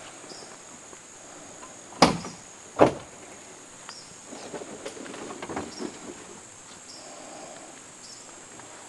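Insects, likely crickets, chirring steadily in a thin high band. Two sharp knocks come about two and three seconds in, the loudest sounds, followed by softer rustling and handling clicks.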